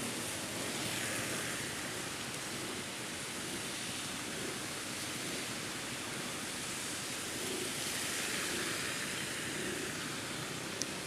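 Steady hiss of light to moderate rain through an action camera's built-in microphone, swelling twice in a slow rise and fall.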